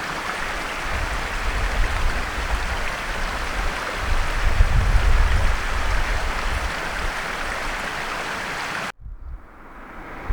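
Steady rushing noise of running water, with low rumbling swells at times. It cuts off abruptly about nine seconds in, leaving a much quieter background.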